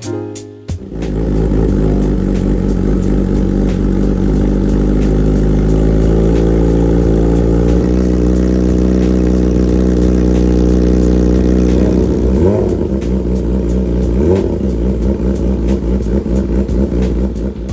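2014 Yamaha YZF-R6 inline-four with an aftermarket SC-Project exhaust, heard while being ridden. It holds a steady drone for about ten seconds, rises sharply in pitch twice near the end, then turns choppy and broken-up as the throttle eases.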